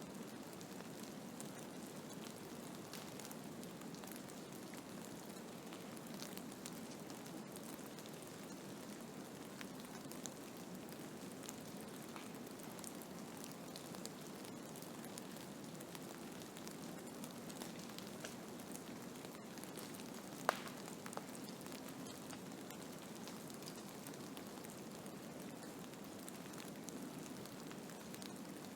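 Steady hiss of a snowstorm, with scattered fine ticks throughout and one sharp click about twenty seconds in.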